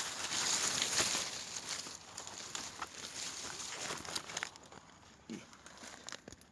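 Dry leaves and brush rustling and crackling underfoot as someone walks through them, loudest in the first two seconds and then fading.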